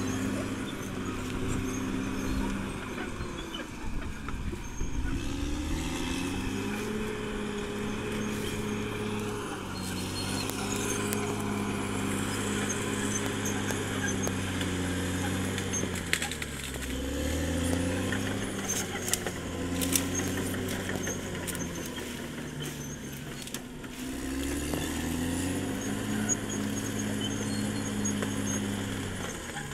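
Caterpillar D6R XL bulldozer's diesel engine working, its pitch dropping and climbing back every several seconds as the load comes and goes. A few sharp clanks are heard in the middle.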